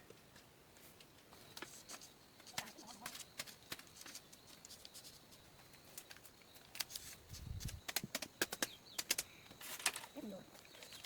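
Irregular sharp clicks and knocks, coming thicker after the first couple of seconds, with one dull thump past the middle.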